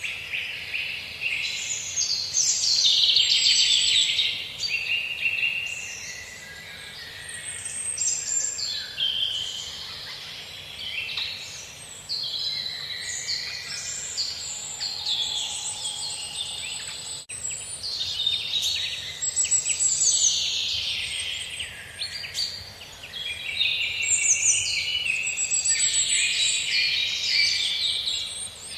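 Many songbirds chirping and singing at once, their quick overlapping calls and trills forming a dense chorus that swells and eases.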